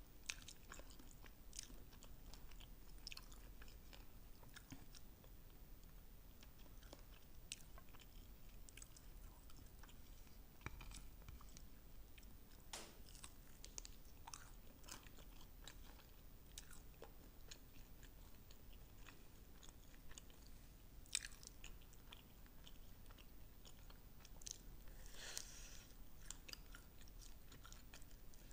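Quiet chewing and biting into sauce-glazed fried chicken wings: scattered crunchy crackles and wet mouth clicks, with a few sharper crunches, the sharpest about 21 seconds in and a cluster of them near the end.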